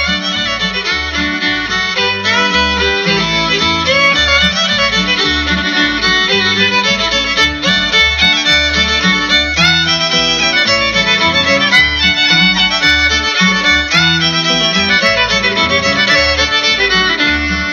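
Fiddle playing an instrumental break between sung verses of a song, over a steady pulsing bass line.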